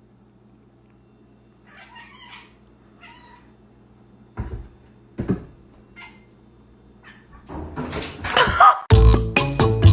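A house cat meowing a few short times over a low steady hum, with two thumps around the middle and a louder, longer cry near the end. Music with a regular beat comes in at the very end.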